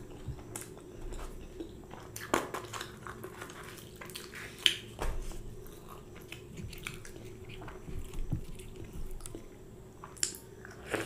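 Close-miked eating sounds: biting and chewing puri with curry, with wet mouth noises and scattered short sharp smacks and crackles.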